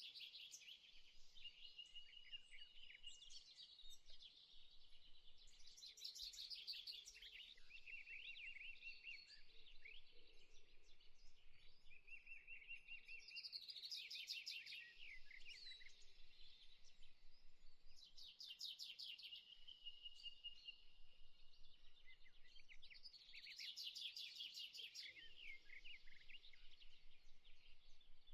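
Faint birdsong: high chirps and short held whistles, broken every five or six seconds by a burst of rapid trills.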